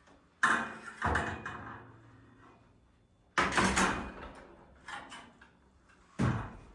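A ladder being handled and set up: a series of loud clanks and bangs with a brief metallic ring, about half a second in, again a second in, at about three and a half seconds and near the end.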